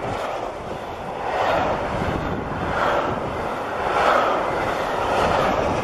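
Freight train of pocket wagons loaded with lorry semi-trailers rolling past close by at speed: steady wheel-on-rail roar that swells and eases about every second and a half.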